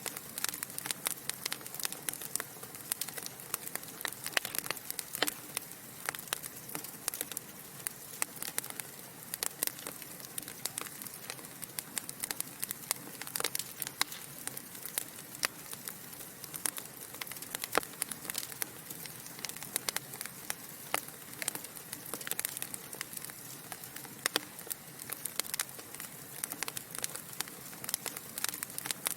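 Wood fire crackling in a fireplace: a steady low hiss with frequent irregular pops and snaps from the burning logs.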